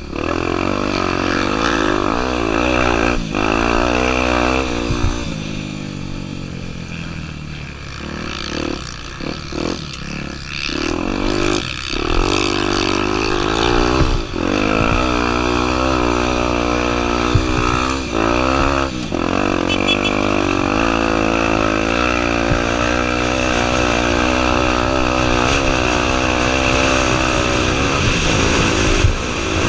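Honda Tornado 250's single-cylinder four-stroke engine under way off-road, its pitch rising and falling with the throttle, with brief drops as the throttle is closed or the gears are changed.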